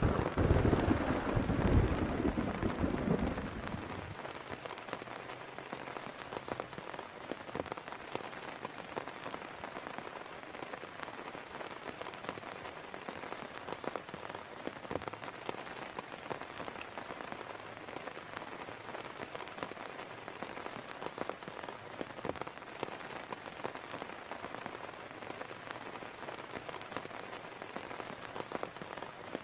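Steady heavy rain with many fine drop impacts. A loud low rumble fills the first three seconds or so, then dies away under the rain.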